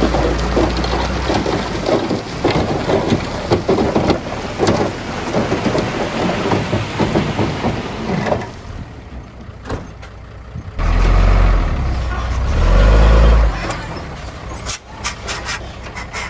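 Heavy earthmoving machinery working: a diesel engine running under a dense clatter of knocks and rattles, then a short quieter lull. About two-thirds of the way through, a loud deep engine rumble lasts nearly three seconds, followed by a few sharp clicks near the end.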